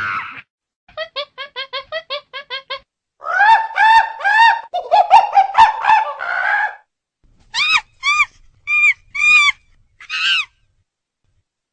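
Chimpanzee calling: a quick run of short hoots builds into a loud stretch of screams about three seconds in, then breaks into a few separate cries that stop near the end, the shape of a pant-hoot.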